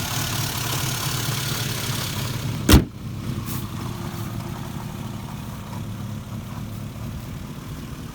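Mercedes 190E 2.3-16 Cosworth's four-cylinder 16-valve engine idling steadily just after a cold start. A single sharp knock sounds about three seconds in, and the high hiss is quieter after it.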